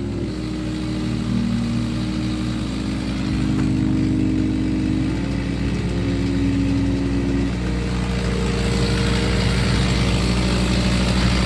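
Small gasoline engine running steadily, its pitch shifting in small steps every second or two.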